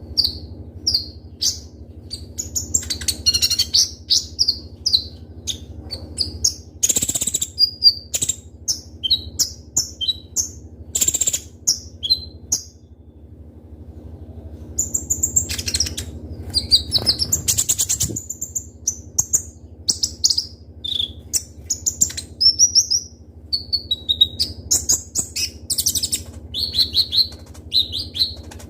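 Kolibri ninja (konin) sunbird singing in full song: rapid, sharp, high-pitched chirps and short trills, with a brief pause about halfway through. A few sharp clicks and a steady low hum sit underneath.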